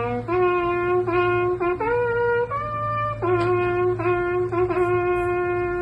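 Solo trumpet playing a slow call of held notes. Most notes are on the same low pitch, with a step up to two higher notes in the middle and a longer final note near the end. A steady low hum runs underneath.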